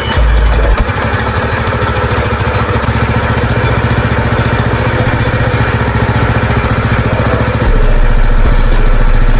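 Mini bike's small gasoline engine running steadily with a fast, even firing beat, just revived with starting fluid after sitting about a year and a half. It gets louder about three-quarters of the way through.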